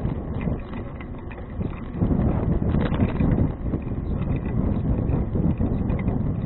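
Wind buffeting an action camera's microphone while riding a bicycle, with small clicks and knocks from the bike over the road surface; louder from about two seconds in.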